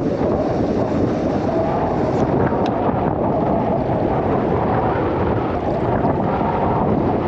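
Steady wind rushing over the microphone, with no engine note.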